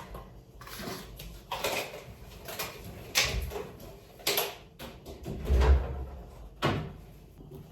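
Kitchen handling noises: a series of short scrapes and knocks, about one a second, with a heavier low thump a little after five seconds in.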